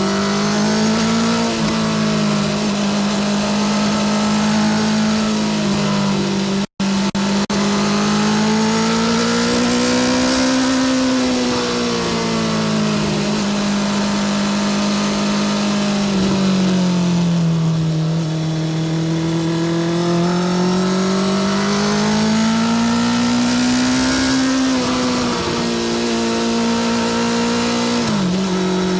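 Honda CBR650R inline-four engine through a Spark full titanium short exhaust, under way, its note rising and falling slowly with the throttle. The sound breaks off for a moment about seven seconds in, and the pitch drops sharply near the end.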